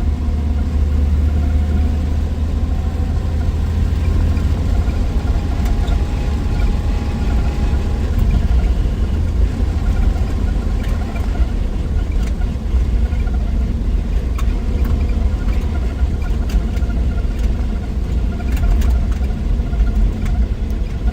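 1963 Willys Wagon's 230 Tornado overhead-cam six-cylinder engine running as the wagon is driven, a steady low drone mixed with road noise. A few faint light clicks or rattles come in the second half.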